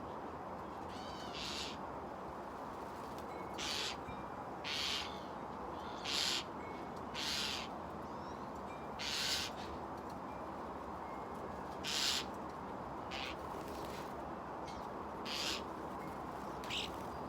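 Wind blowing steadily, with about a dozen short, harsh bird calls spaced roughly a second apart.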